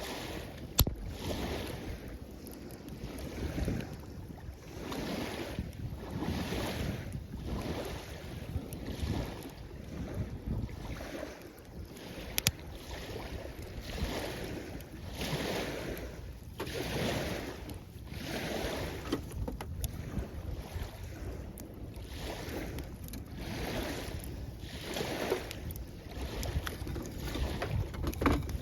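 Waves washing at the shoreline with wind on the microphone, under a repeated rushing or scraping stroke about once a second and an occasional sharp click.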